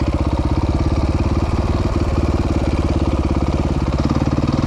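Dirt bike engine running at low, steady revs, its individual firing pulses plainly audible.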